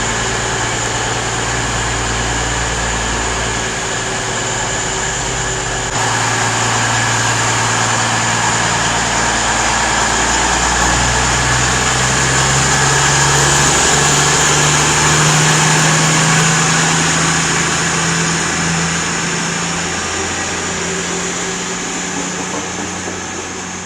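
Diesel train engines running at the platform, their low note shifting up and down in steps several times, over a steady high whine and hiss.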